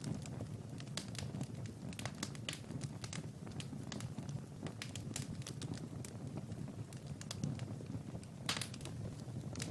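Wood fire crackling: irregular sharp pops and snaps over a low steady rumble, with a louder crackle near the end.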